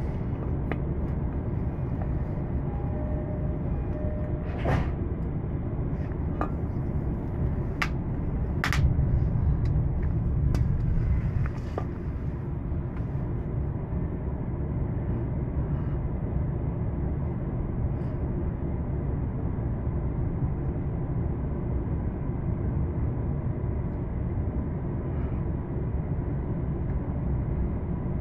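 Electric commuter train running at speed, heard from inside the carriage: a steady low rumble of wheels on rails. A few short sharp clicks come between about four and eleven seconds in, where the running noise briefly gets a little louder.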